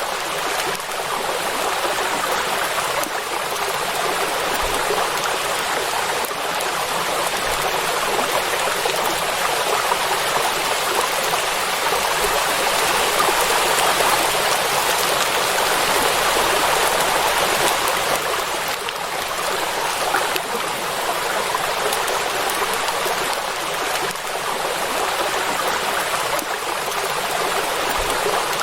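Steady heavy rain falling on a lake's surface: a dense, even hiss that swells a little and eases, with no thunder.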